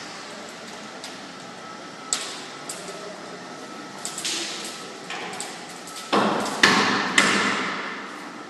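Sharp knocks and clatter of hand work during a fireplace installation, about eight separate strikes, the loudest coming with a burst of scraping noise from about six seconds in.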